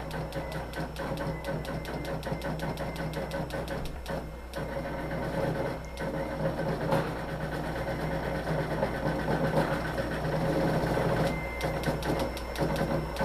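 Butterfly embroidery machine stitching a cap: a fast, even run of needle clicks over the hum of its motor. The stitching pauses briefly about four seconds in, then resumes and gets louder in the second half.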